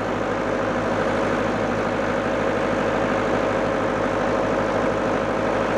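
An engine idling steadily, an even low drone with no change in speed.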